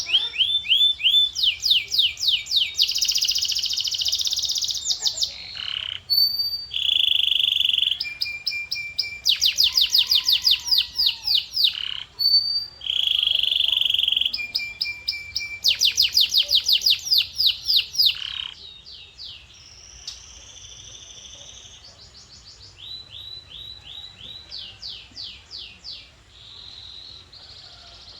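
Male domestic canary singing: fast rolling trills and repeated sweeping phrases, with held buzzy notes between them. About two-thirds through, the song drops to a quieter run of softer trills.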